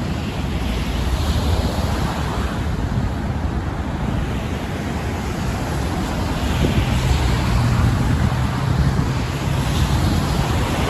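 Wind buffeting the microphone over a steady rush of road traffic, with a low engine hum swelling about two-thirds of the way in.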